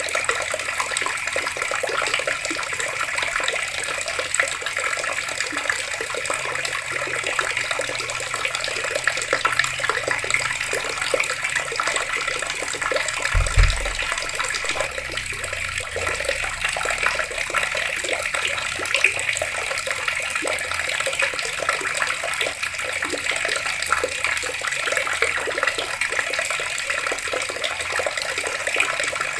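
Water running steadily from taps and splashing. A brief low thump about halfway through.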